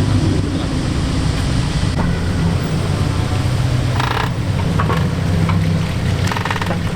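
Modified car's engine and exhaust running with a steady low rumble while the car rolls at low speed, with brief rapid rattling bursts about four seconds in and again near the end.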